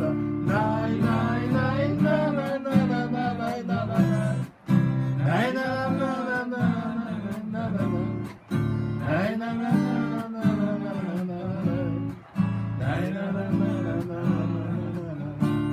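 Acoustic guitar strummed in a steady rhythm, with a man's voice carrying a melody over it in four phrases separated by short pauses.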